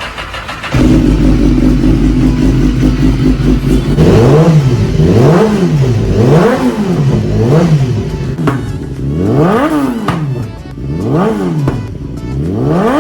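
BMW S1000RR inline-four superbike engine fitted with an Akrapovic full-system exhaust. It starts up a little under a second in and idles, then from about four seconds it is revved in about eight quick blips, each rising and falling in pitch.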